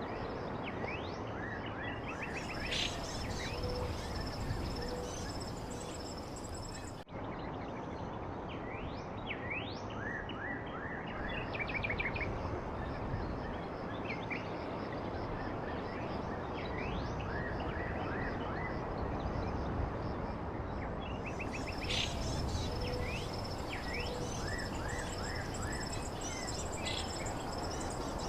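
Many small birds chirping in short, quick rising and falling notes over a steady background hiss, with a brief break in the sound about seven seconds in.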